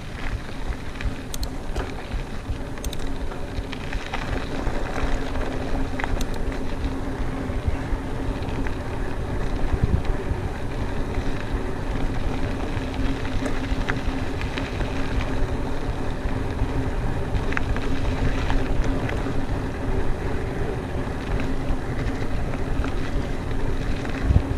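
Mountain bike rolling fast along a dirt trail: wind buffeting the microphone over the rumble of the tyres, with a steady hum and scattered clicks and rattles from the bike.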